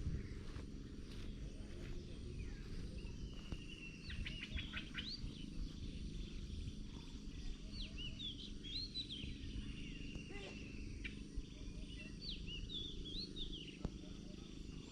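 Birds chirping and calling in groups of quick, rising and falling notes, with a thin steady trill between them, over a constant low outdoor rumble; a few faint knocks.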